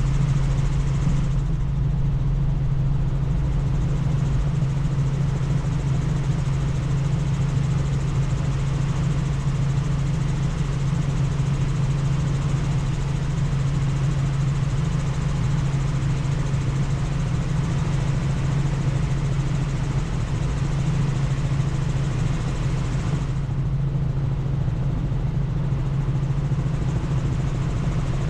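Helicopter in flight, heard from the cabin: a steady, loud drone with a constant low hum under a rushing noise.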